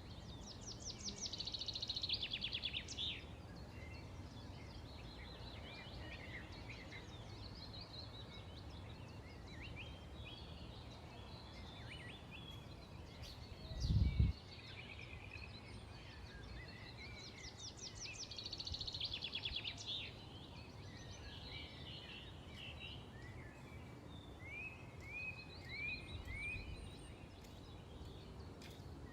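Small birds chirping, with a fast trilled song phrase twice, near the start and again about two-thirds through, over a steady low outdoor hum. A brief low thump about halfway is the loudest sound.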